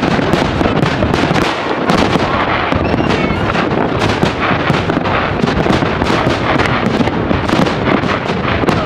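Fireworks display: aerial shells bursting in rapid succession, a dense, unbroken run of bangs and crackling.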